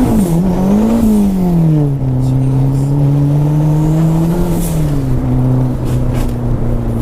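Turbocharged Mini's engine running under load. Its pitch rises and dips in the first two seconds, drops sharply about two seconds in, climbs slowly, then eases off and settles again near the end.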